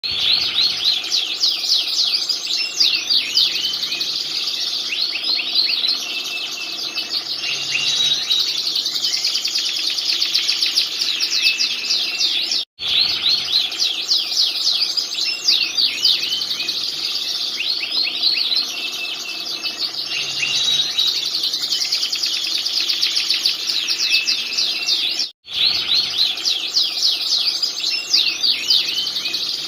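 Canary singing continuously: fast rolling trills and warbles, with two very brief breaks about 13 and 25 seconds in.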